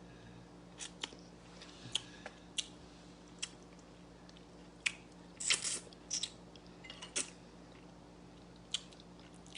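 Close-up mouth sounds of eating stewed fish head: scattered short wet smacks and clicks of chewing, with a small flurry about five to six seconds in.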